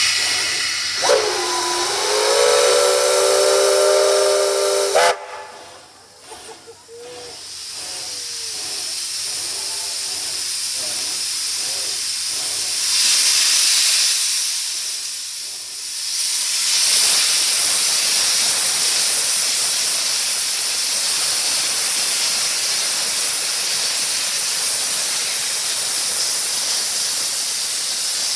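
Steam locomotive whistle blowing about a second in: a chord that slides down, then holds for about four seconds and cuts off suddenly. Steam hissing follows, surging loud partway through and then running on steadily.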